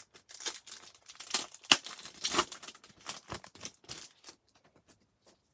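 Trading cards and their pack wrappers being handled: a run of quick clicks, slides and rustles, with one sharp snap of card about halfway through.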